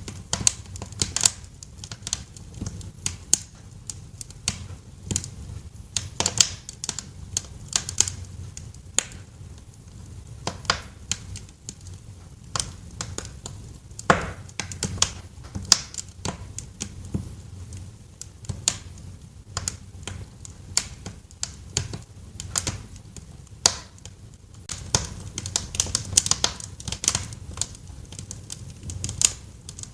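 Wood fire crackling in a fireplace: irregular sharp pops and snaps over a low steady rumble of the burning, with a busier run of crackles near the end.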